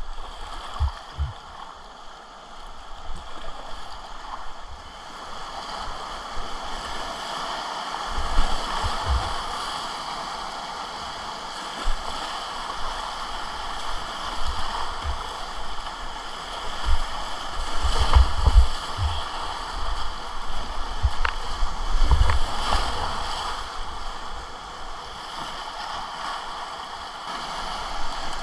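Whitewater river rushing and gurgling around a kayak on the run, with irregular low thumps coming and going.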